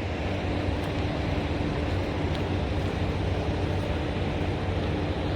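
Steady low hum of an idling semi truck, with a constant droning tone and no change in pitch or level.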